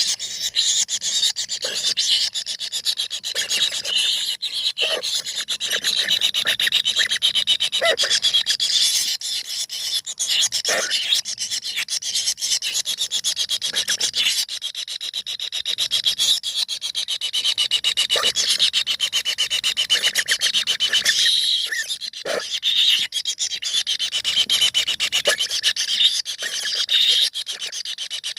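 A clamor of four nestlings calling from inside a nest hole: a continuous, harsh, raspy chorus of begging calls that stays loud throughout.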